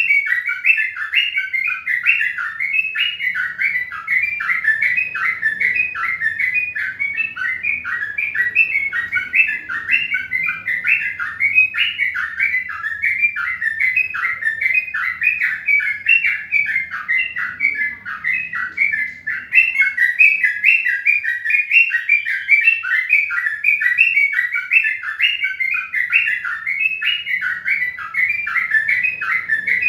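Small birds chirping continuously, many short, quick chirps a second in a dense, unbroken chorus.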